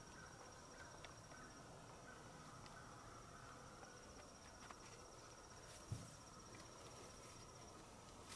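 Faint, steady, high-pitched insect trill, with a few light clicks and one soft low thump about six seconds in.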